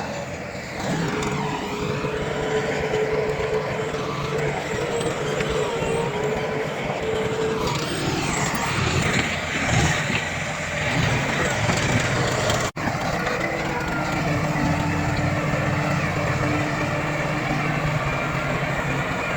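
Heavy diesel earthmoving machinery running steadily under load, with a steady mechanical whine above the engine rumble; the sound cuts out for an instant about two-thirds of the way through.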